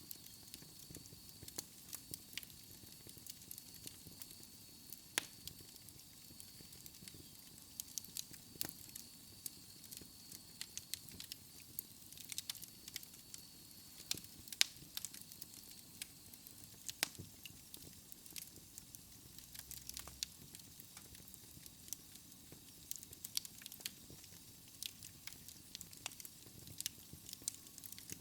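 Wood fire crackling in a fireplace: irregular sharp pops and snaps over a soft steady hiss, with a faint high steady tone through about the first half.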